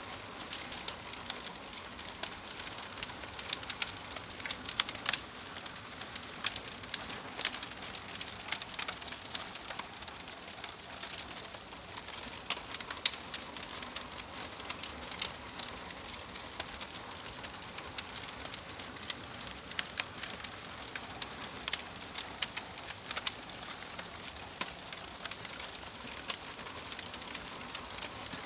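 Fire crackling: a steady soft hiss with irregular sharp pops and snaps, a few each second.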